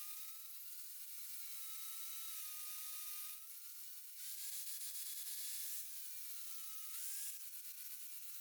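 Angle grinder running on the steel face of a stake anvil made from a truck axle, its whine wavering in pitch as the load on the disc changes, with surges of grinding hiss about three and a half seconds in and again near seven seconds.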